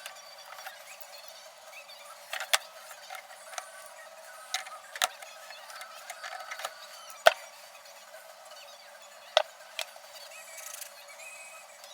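Scattered sharp clicks and clinks of tools and parts being handled during brake work, with four louder knocks spaced a couple of seconds apart and lighter taps between them.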